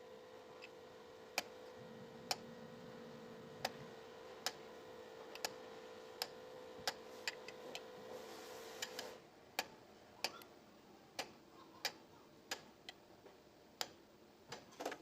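Sharp, irregular clicks or light taps, roughly one a second, over a steady hum that cuts off about nine seconds in.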